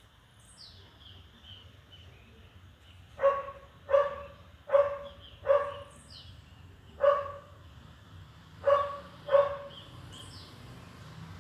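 A dog barking seven times: a run of four quick barks, a single bark, then two more.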